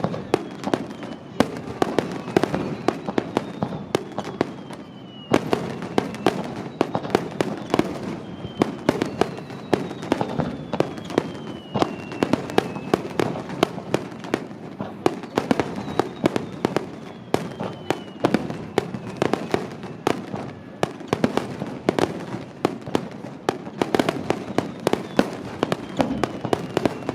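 Star mine fireworks finale: a rapid, continuous barrage of bangs and crackling bursts, several a second, with a few whistles gliding down in pitch over a second or two.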